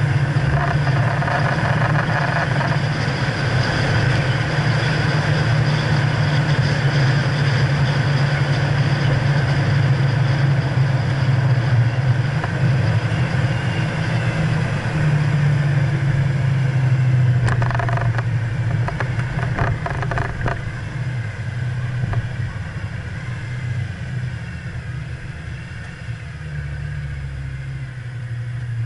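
2011 BMW E92 M3's V8 engine running steadily at speed on track, with a few short knocks a little past the middle. The engine sound falls away over the last several seconds as the car slows.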